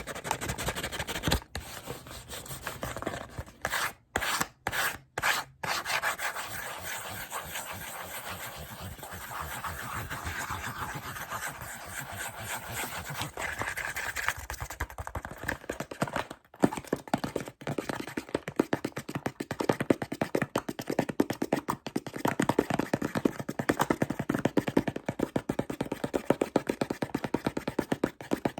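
Fast, aggressive ASMR scratching and rubbing on packaging items, a dense run of rapid scraping strokes. There are a few brief pauses about four to six seconds in, and the strokes turn sharper and closer together in the second half.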